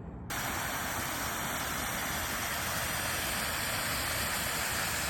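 Steady rushing hiss, like water or wind noise, that starts abruptly a moment in and holds even.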